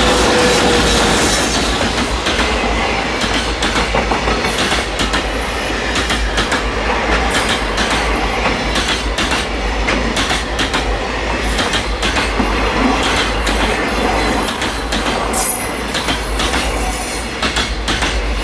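Freight train wagons rolling past close by: a continuous rumble of steel wheels on rail with many sharp clicks over rail joints and brief high-pitched wheel squeals now and then.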